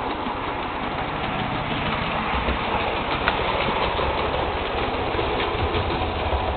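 Model railway train running on the track: a steady whirr of the locomotive's small electric motor and wheels, with scattered faint clicks.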